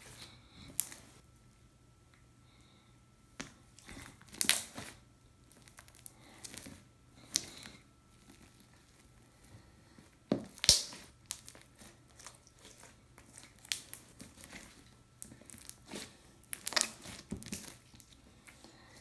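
Stretchy slime being stretched and squished by hand, making irregular crackles and pops, the loudest a little past the middle.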